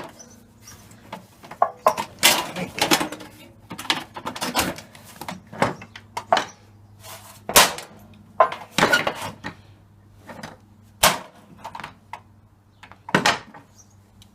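Hammer blows on the metal parts of a dishwasher being knocked apart for scrap: about a dozen sharp, irregular strikes, some louder and ringing briefly.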